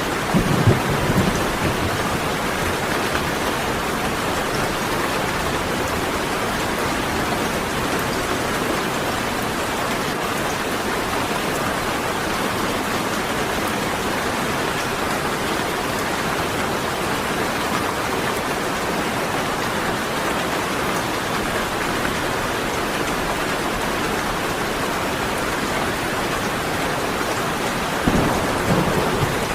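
Steady heavy rain falling, with a short low rumble of thunder at the very start and another near the end.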